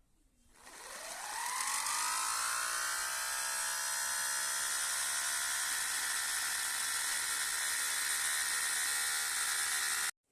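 Small electric motor spinning up with a rising whine over about a second and a half, then running at a steady high whir before cutting off abruptly near the end.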